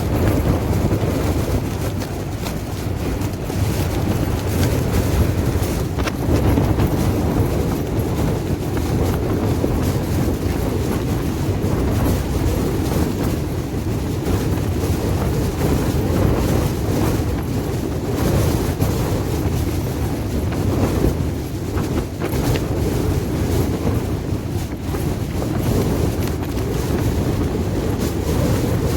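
Strong storm wind gusting against a tent and over the microphone: a low rumble that swells and eases with each gust.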